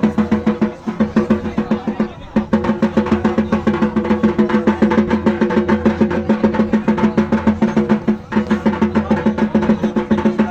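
Drums beaten in a fast, steady rhythm, about six strokes a second, with short breaks about one and two seconds in and again near the end.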